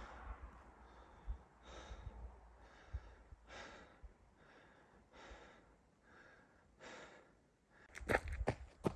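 Soft, evenly paced footsteps over forest ground, about one step a second. About 8 s in they turn into a louder run of sharp crackles underfoot.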